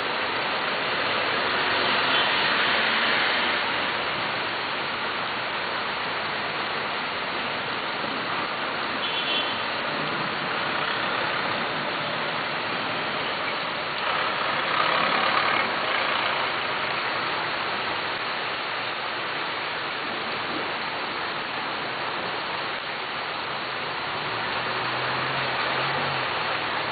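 Heavy rain falling steadily, mixed with road traffic on wet streets; the noise swells twice, about two seconds in and again about fifteen seconds in.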